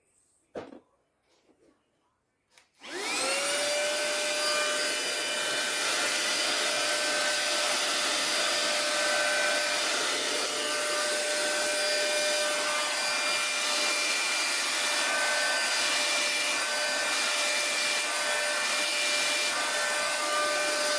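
HOMEKANE cordless handheld vacuum cleaner switched on about three seconds in: its motor whines up to speed, then runs steadily with a high whine over a rushing hiss.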